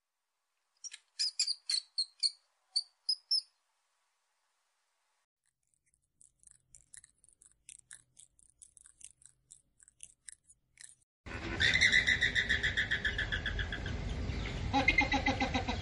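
Animal calls in three parts: a few short, high bird-like chirps, then faint fast ticking, then a loud run of rapid pulsed calls with lower calls near the end.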